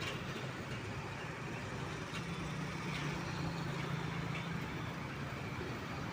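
Large truck engine running at low revs amid road noise, its low engine note growing stronger for a few seconds in the middle.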